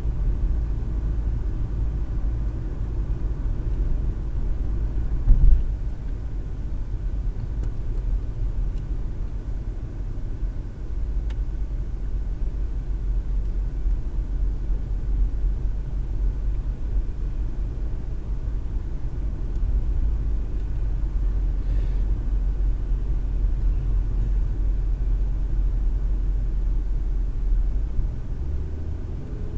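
Car driving, heard from inside the cabin through a dash-cam microphone: a steady low rumble of road and engine noise. A single thump comes about five seconds in.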